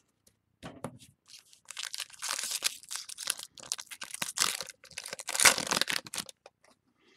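A trading card pack's wrapper being torn open and crinkled by hand, a dense crackling rustle lasting several seconds.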